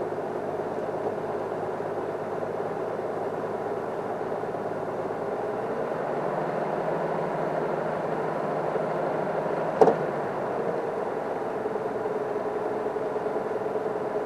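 Game-drive vehicle's engine idling steadily, with one sharp click a little before ten seconds in.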